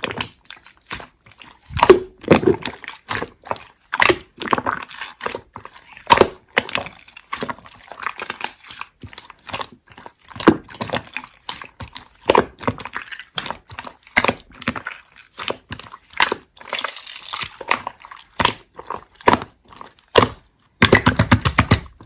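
Slime being squeezed, stretched and pressed by hand, making irregular wet pops and sharp clicks as air pockets burst. Near the end there is a quick run of rapid clicks.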